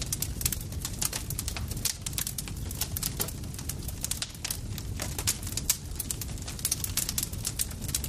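Wood campfire crackling: many sharp, irregular snaps and pops over a continuous low rumble of burning.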